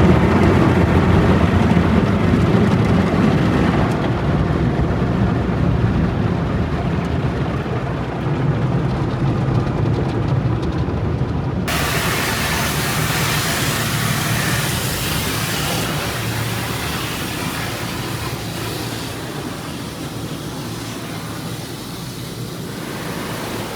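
Automatic car wash heard from inside the car: a loud, continuous low rumble of water and machinery on the car. About halfway through it switches suddenly to a loud, even hiss that slowly fades.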